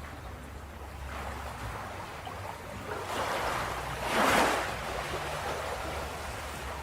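Ocean waves on a beach: surf building and one wave breaking loudly about four seconds in, then washing back, over a steady low rumble.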